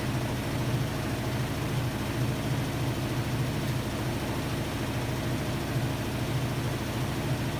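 Hotpoint-Ariston AQD972F washer-dryer running steadily: a constant low hum with an even hiss over it, no knocks or changes.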